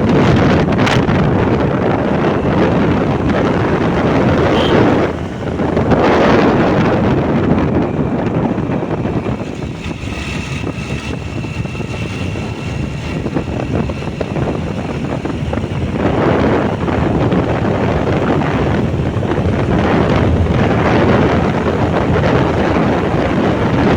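Wind buffeting the microphone on a moving motorbike, with the bike's engine running underneath; it dips briefly about five seconds in.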